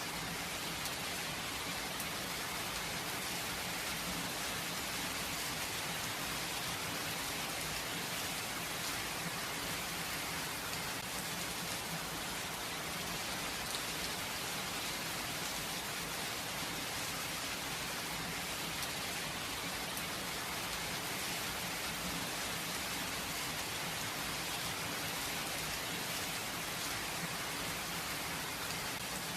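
Steady rain falling without thunder, a continuous hiss of many fine drops pattering on surfaces.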